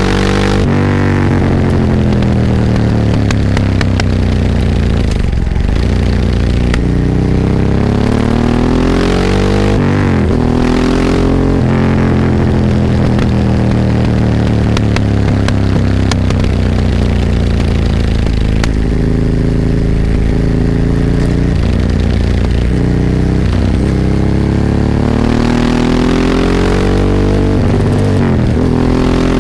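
Ducati 998 superbike's 90-degree L-twin engine under way, revs climbing and dropping again and again as it runs through the gears, with a steadier stretch in the middle and a last climb near the end.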